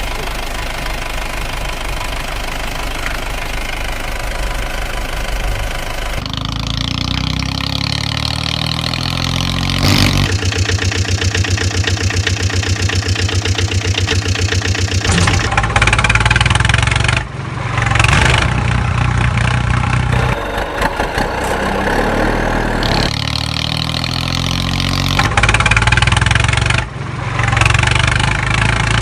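Heavy vehicle engine sounds idling and revving, switching abruptly every few seconds from one engine to another, with a stretch of fast, even chugging in the middle.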